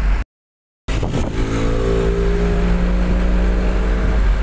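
Vehicle engine droning steadily over low road rumble, heard from inside a moving car. The sound drops out completely for about half a second near the start.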